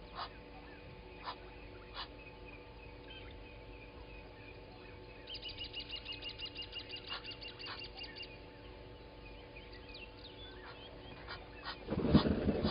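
Birds calling at a waterhole: scattered short chirps, a rapid trill of quick high notes lasting a few seconds in the middle, and near the end a louder, lower harsh call.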